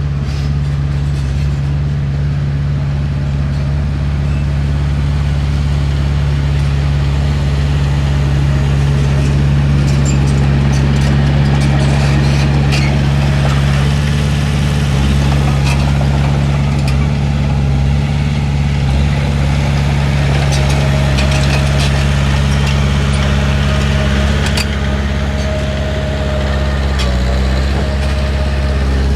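Heavy diesel engine of earthmoving machinery running steadily under work, with scattered short metallic clicks and clanks over the engine drone.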